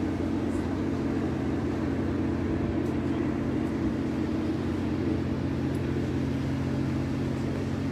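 Machinery running with a steady, unchanging low droning hum.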